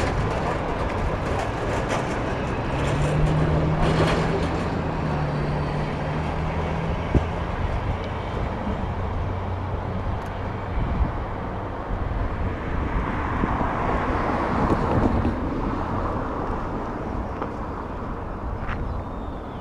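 CN train passing close by, a steady rumble of wheels on the rails. A low hum runs for a few seconds about three seconds in, there is a single sharp click about seven seconds in, and the sound slowly fades toward the end as the train draws away.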